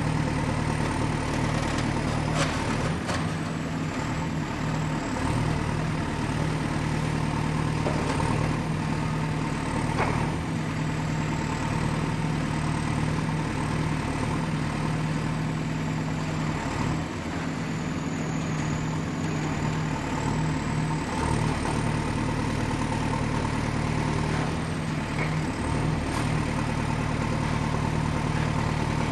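Excavator's diesel engine running steadily at a low, even hum, with a thin high whine that drifts up and down in pitch. A few short knocks sound near the start and again around eight and ten seconds in.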